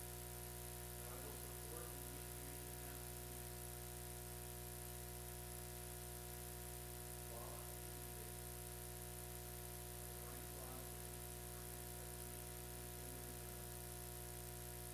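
Steady electrical hum and buzz with a layer of hiss, the noise floor of a weak audio feed, with a few faint, brief sounds about 1, 7.5, 10.5 and 13 seconds in.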